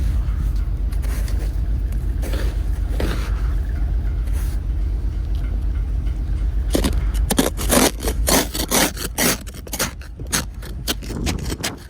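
Engine idling steadily after a cold start, with a dense run of irregular, sharp scraping and crunching noises over it in the second half.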